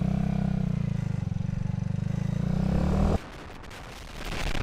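Minsk D4 125's single-cylinder four-stroke engine running under way with an even low firing beat. About three seconds in its sound cuts off abruptly, leaving a rushing noise that grows near the end.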